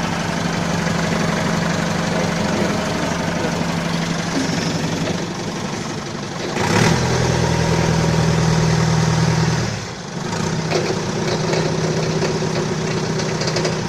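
Balkancar forklift's diesel engine running steadily; about halfway through it runs louder for some three seconds, then settles back to the earlier steady running.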